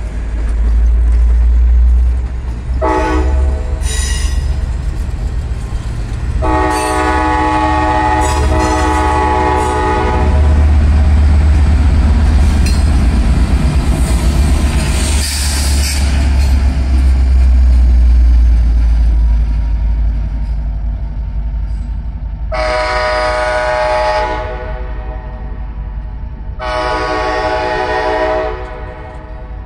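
Passenger train rolling slowly past at close range: the deep rumble of its EMD F59PH diesel locomotive pushing at the rear, heaviest mid-way and fading near the end, over wheel and railcar noise. The train horn sounds four blasts for the grade crossing: a short one about three seconds in, a long one from about six to ten seconds, and two shorter ones near the end.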